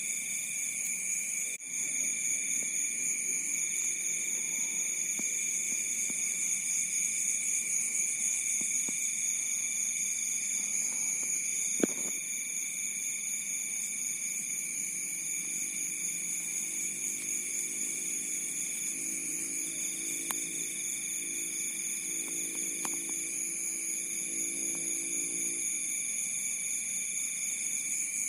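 Field crickets chirring at night, several callers at different pitches making a steady trill, with one higher caller singing in stretches of a few seconds and pausing between them. A single sharp click sounds about twelve seconds in.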